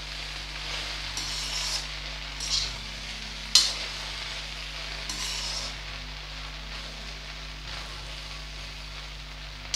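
Okra, onion and green chilli sizzling as they fry in a metal kadhai, with a spatula stirring and scraping the pan in several strokes. The sharpest scrape comes about three and a half seconds in, and the stirring eases off after about six seconds.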